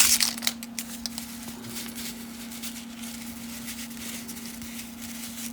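Faint crinkling of a cellophane card-pack wrapper being picked at, mostly in the first second, over a steady low hum.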